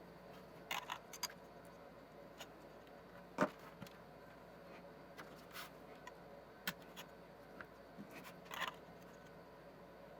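Faint, scattered small clicks and scrapes of hands working at the plastic push-pin fasteners holding a CPU heatsink on a circuit board, the sharpest click about three and a half seconds in.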